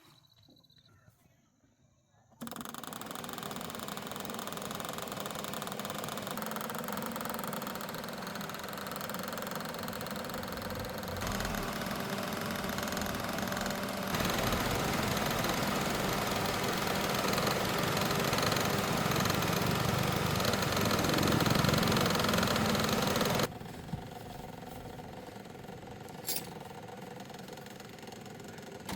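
An engine running steadily, starting suddenly after a couple of seconds of near silence and jumping in level several times before dropping to a quieter run near the end, with a single sharp click.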